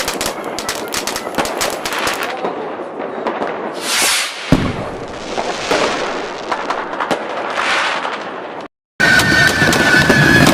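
Fireworks going off: a dense crackle of rapid pops, then a rising whoosh about four seconds in that ends in a bang, followed by scattered crackling. Near the end the sound cuts out abruptly to a moment of silence, and a different sound with a steady high tone follows.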